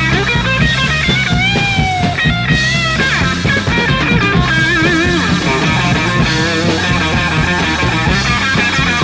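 1960s psychedelic rock recording: electric guitar lines with wavering, bending notes over bass and drums, as in an instrumental passage.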